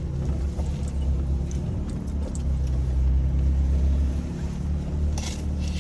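Jeep TJ's engine running steadily at low revs, with light rattles and clinks, and a short noisy burst near the end.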